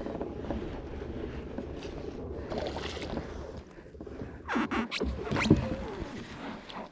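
Low wind rumble on the microphone and water noise around a kayak, with a short burst of knocks and rustling about four and a half seconds in.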